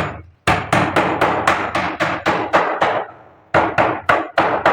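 Hammer blows on wood in a quick, even run, about four a second, breaking off briefly about three seconds in before another run of blows.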